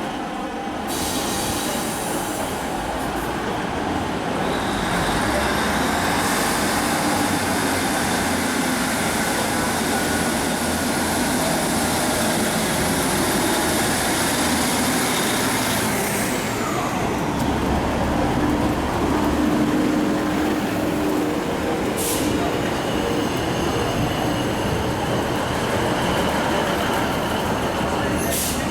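Passenger train running past the platform: a steady heavy rumble and wheel noise with high whining tones, one gliding down about halfway through.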